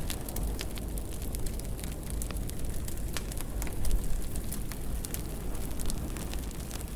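Fireplace fire crackling: frequent sharp pops and snaps over a steady low rumble, with a louder pop about four seconds in.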